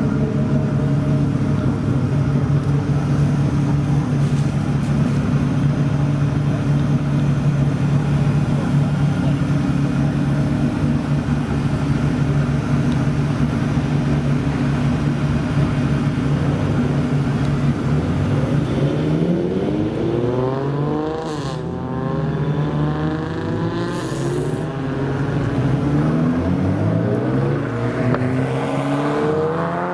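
Modified car engine idling steadily with a deep, even note, then, about two-thirds of the way through, accelerating away: the pitch climbs, drops back at gear changes and climbs again.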